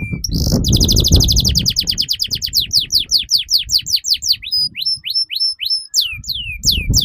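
Domestic canary singing a long, varied song. It opens with a fast rolling trill of many quick notes, then moves to slower downward-sweeping notes, a run of short repeated whistles and more down-sweeps. A low rumble sits under the first two seconds.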